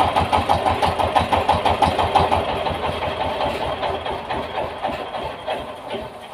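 Yanmar TS 230 single-cylinder diesel engine chugging with an even, pulsing beat; from about two seconds in the beat weakens and the sound fades away steadily.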